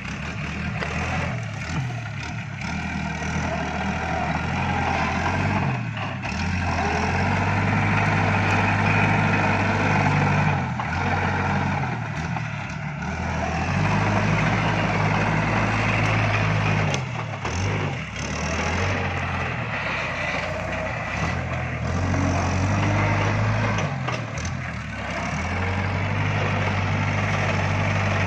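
Iseki NT554 tractor's diesel engine running, its pitch rising and falling several times as it is revved and loaded while working the stalk grab, with a few short knocks.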